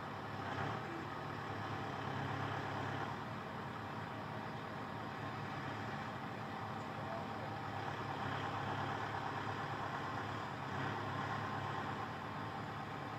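Kubota tractor engine running steadily, swelling a little in loudness a few times as it works the loader.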